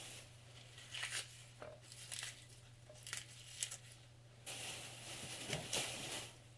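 Kale being handled for a salad: short, irregular crinkling and tearing rustles, then a longer stretch of rustling about two-thirds of the way through.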